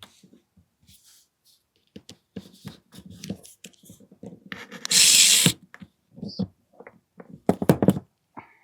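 AAP-01 airsoft pistol parts being handled and worked with tools: a run of small clicks and knocks, a loud rushing noise about a second long midway, and a quick cluster of louder clacks near the end.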